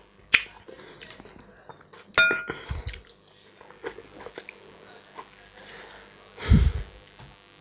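Close-miked mouth sounds of someone chewing a mouthful of macaroni with pork. A metal fork clinks against a ceramic bowl with a short ring about two seconds in, and there is a short low muffled thump near the end.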